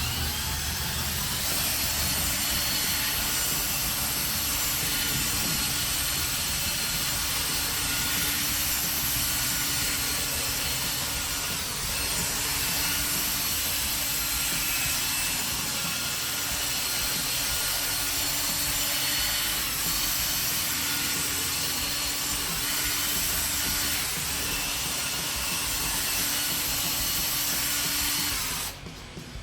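Drill spinning a polishing pad loaded with compound against a plastic headlight lens, a steady whirring hiss; it stops briefly near the end and starts again.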